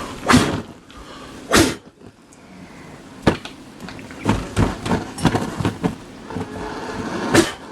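Repeated short, hard puffs of breath blowing at a methylated-spirit burner flame to put it out, some strong puffs spread through and a quick run of smaller ones in the middle.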